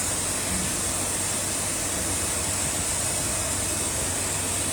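Steady hum and hiss of a running paper lid forming machine, unchanging throughout.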